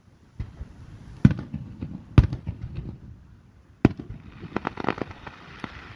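Aerial fireworks shells bursting: three sharp booms spaced about a second apart, each trailed by a low rumble, then a quick run of smaller pops near the end.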